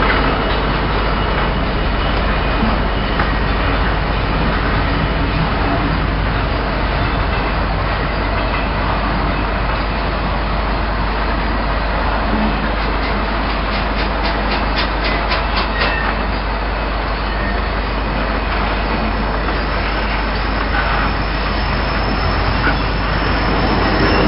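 Loaded open box wagons of a freight engineering train rolling past, a steady rumble and rattle of steel wheels on the rails. About halfway through comes a quick run of evenly spaced clicks as wheels pass over a rail joint.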